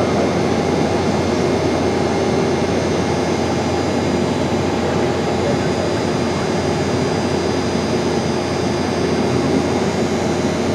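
Airliner engines and rushing air in flight, a steady noise with a few constant hums and a faint high whine, unchanging throughout.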